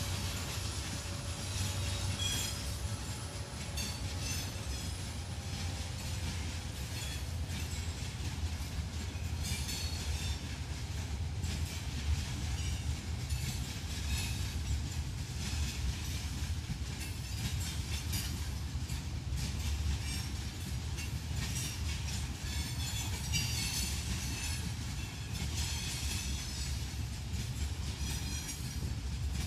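Union Pacific rock train's Herzog hopper cars rolling past: a steady rumble of steel wheels on rail with repeated clacking over the rail joints. A faint whine fades out in the first few seconds.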